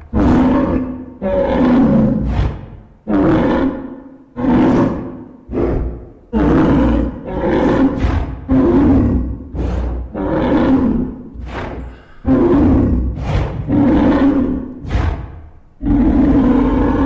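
Reconstructed Velociraptor calls from a dinosaur-sound video: a run of about a dozen loud, pitched roaring calls, each lasting about half a second to a second, with short gaps between them.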